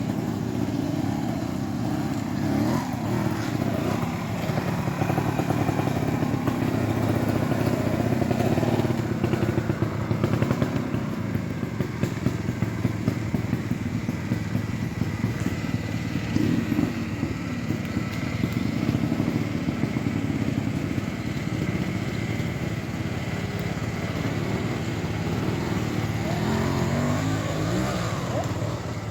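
Trials motorcycle engine running at low revs. It is blipped up and down several times, so the pitch rises and falls.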